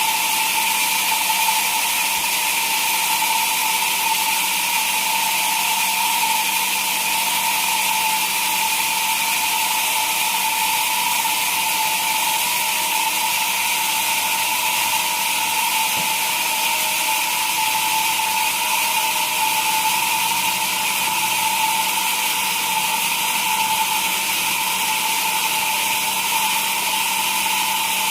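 Sawmill machinery running steadily, a constant high-pitched whine over a noisy background that does not change.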